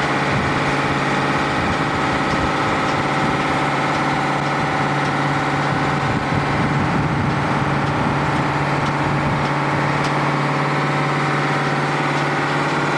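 Vehicle engine idling, a steady hum that holds even throughout.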